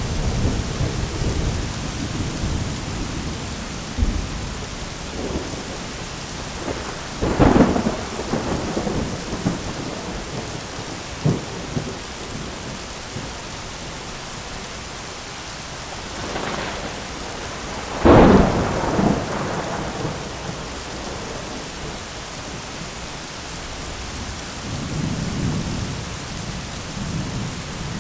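Steady rain with thunder: a low rumble at the start, sharp thunderclaps about seven and eighteen seconds in, each trailing off in rumbling, and a softer rumble near the end.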